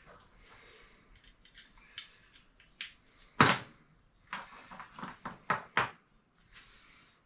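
Scattered clicks, clinks and knocks of engine parts and tools being handled on a workbench, with one louder knock about three and a half seconds in and a quick run of clicks shortly after.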